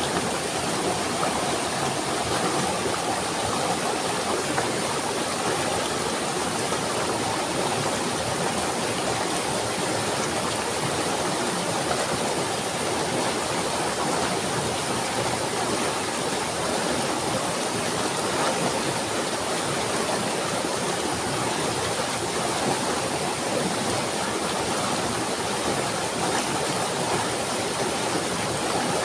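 Running water rushing steadily without a break, like a stream or small waterfall.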